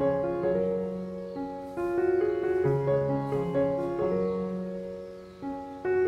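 Background piano music: a gentle melody of single notes over a bass line.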